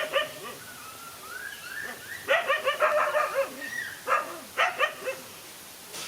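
Dogs barking in quick bursts, with a fast run of barks in the middle. Between the bursts there are thin, high rising whines.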